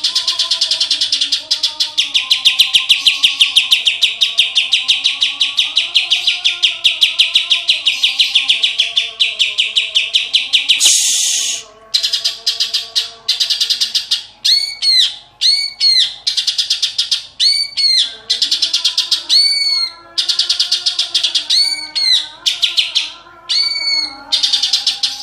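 A green leafbird (cucak ijo) singing. For about eleven seconds it gives a fast, even, buzzy trill. After a short pause it switches to a series of clear arching whistled notes, often in pairs. These are the mimicked calls, the 'isian', of the kapas tembak and the tengkek kingfisher that it has learned.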